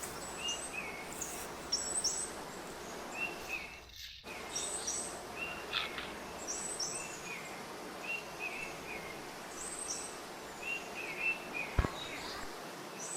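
A bird calling over and over, short high chirps repeating about once a second, over a steady outdoor background hiss.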